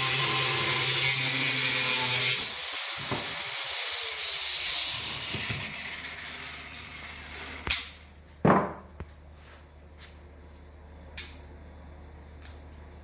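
Power grinder grinding down steel, then switched off about two seconds in, its motor winding down with a falling whine. A few sharp metal knocks follow.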